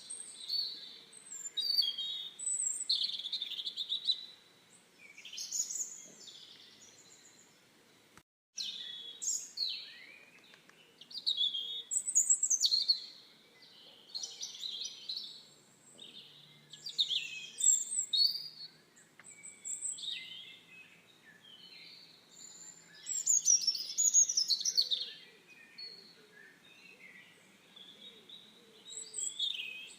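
Wild birds singing and chirping in quick, high phrases that come and go throughout, with a brief total gap about eight seconds in.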